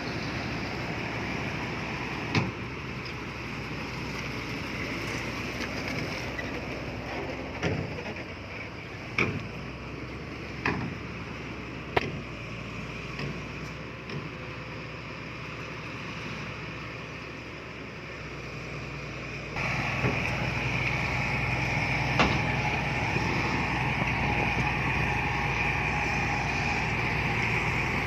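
Heavy diesel earthmoving machinery running steadily, with a few sharp knocks and clanks in the first half. About twenty seconds in, the engine note steps up and stays louder, as if the machine is put under load.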